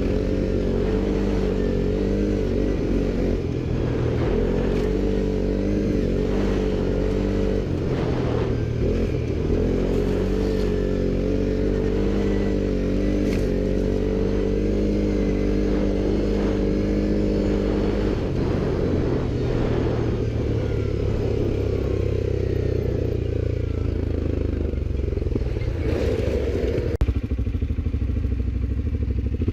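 ATV engine running steadily under way, its pitch wavering with the throttle and changing about two-thirds of the way through, with scattered clattering knocks.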